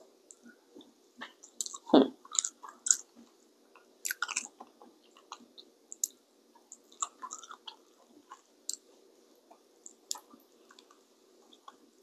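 Close-miked chewing and biting of a person eating a seafood boil of shrimp and crawfish: irregular short mouth clicks and smacks, with one louder bite about two seconds in.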